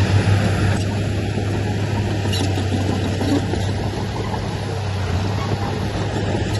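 Heavy diesel engine of earthmoving machinery running steadily with a low hum, with a slight drop in its hiss about a second in.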